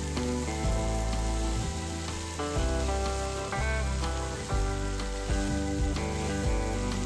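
Food sizzling in a hot frying pan, a steady crackling hiss, under gentle background music.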